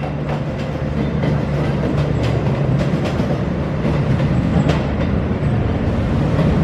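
Passenger train coaches rolling past at speed, wheels clicking irregularly over the track joints above a steady low rumble.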